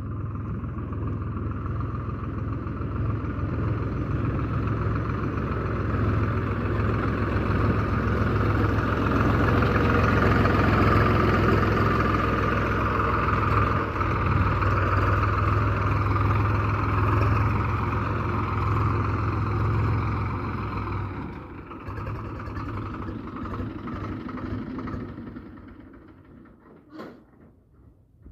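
Diesel engine running steadily and loudly, easing back at about 21 seconds and fading out over the last few seconds.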